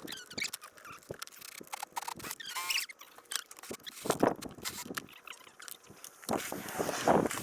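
Hand work on a dirt bike's plastic body panels: a run of small clicks and knocks, a short squeak about two and a half seconds in, and scraping rasps around four seconds in and again near the end.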